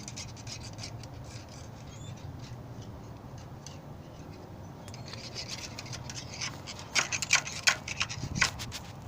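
Rubbing and scraping of something being handled over a steady low hum, with a run of sharp clicks and knocks about seven to eight and a half seconds in.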